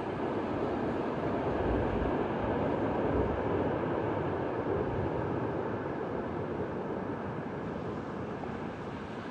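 Jet noise from a landing Boeing 787-9 Dreamliner, a broad steady rush that peaks about two to three seconds in and then slowly fades.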